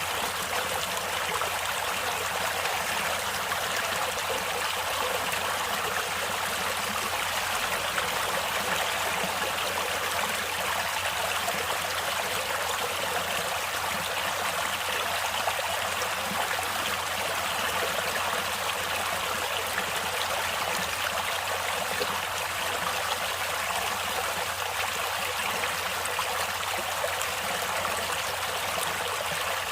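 Natural running water flowing steadily, an even rushing hiss with little low rumble and no pauses or changes.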